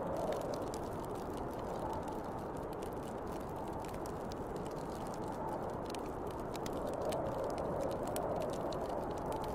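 Snowstorm wind blowing steadily, swelling and easing in slow gusts, with light crackling and popping of a wood fire throughout.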